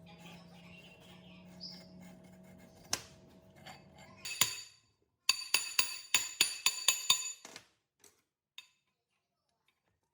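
Quick series of about nine hammer taps on a metal part that rings after each blow, about four a second, after a faint steady hum.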